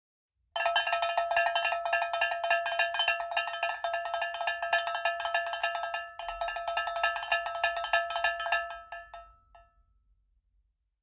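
A ringing metal percussion instrument with a cowbell-like tone, struck rapidly and evenly, several strikes a second. The strikes pause briefly in the middle, resume, then stop and ring away near the end.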